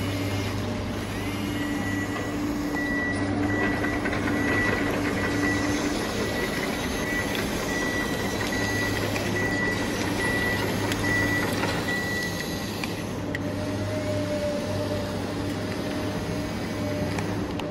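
Toy RC excavator running: a steady mechanical hum, with a repeating high beep through much of it.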